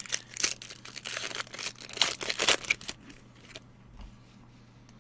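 Plastic card-pack wrapping being torn open and crumpled, a dense crackle that dies away after about three seconds.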